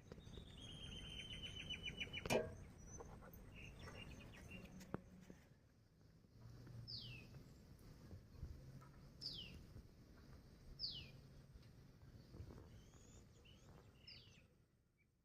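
Faint wild bird calls: a quick run of chirps in the first two seconds, then three short whistles that slide downward, a second or two apart. A single sharp click comes about two seconds in.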